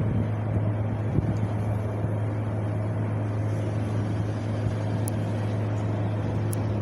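Wind blowing steadily, with a constant low rumble and a brief low gust buffeting the microphone about a second in.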